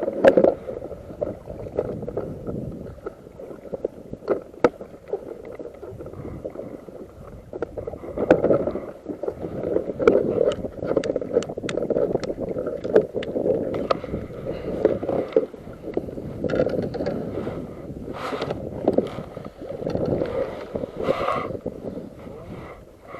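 Sea water sloshing and lapping against a fishing kayak's hull, with scattered small clicks and knocks.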